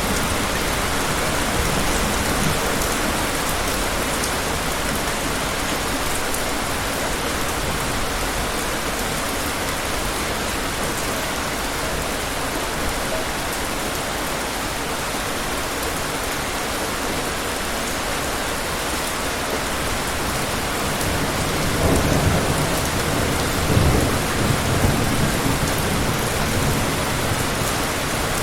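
Steady heavy rain falling, with a low rumble of thunder building about three quarters of the way through and peaking a couple of seconds later before trailing off.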